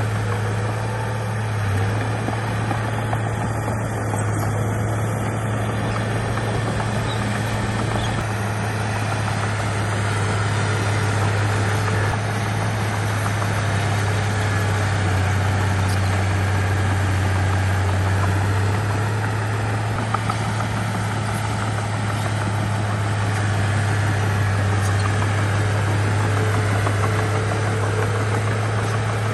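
Bulldozer's diesel engine running steadily with a deep, even hum; its pitch drops slightly for a few seconds around the middle.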